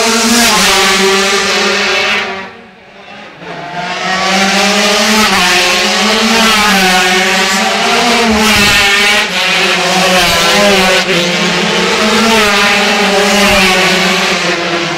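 A pack of 125cc racing motorcycles passing at speed, several engines screaming together with their pitch rising and falling through gear changes. A brief lull comes about three seconds in, then a long stream of bikes follows.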